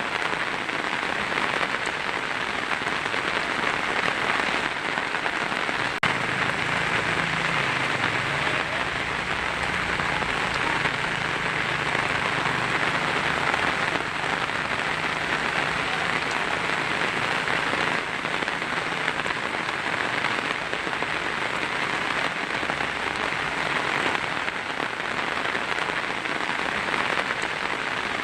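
Heavy rain falling steadily on a tin roof, a dense even patter.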